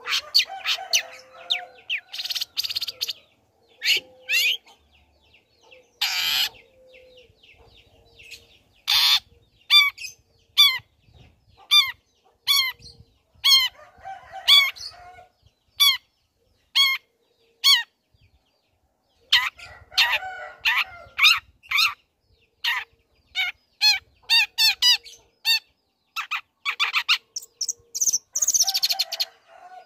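Long-tailed shrike (cendet) singing a varied song: harsh, scratchy chattering bursts alternating with runs of short, sharp falling whistled notes at about two a second.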